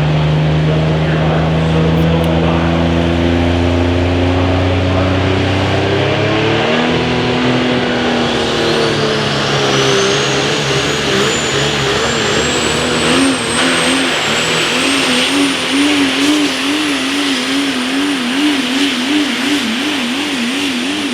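Multi-turbocharged super stock diesel pulling truck running hard under load with a pulling sled. Its engine holds a steady note, then shifts pitch about six seconds in. A high turbo whine then climbs and holds, while the engine note wavers up and down about once or twice a second.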